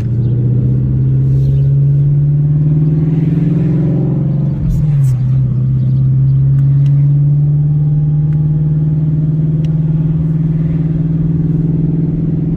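Ford Mustang Shelby GT350's 5.2-litre flat-plane-crank V8 pulling under acceleration, heard from inside the cabin. Its pitch climbs until a gear change about four and a half seconds in drops it, then climbs slowly again.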